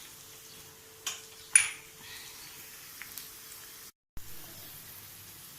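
Metal kitchen utensils clinking twice, the second clink the louder with a short bright ring, over a faint background.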